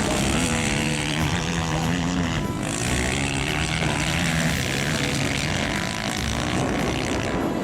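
Motocross bike engines revving hard and falling back, again and again, as the bikes race around the track.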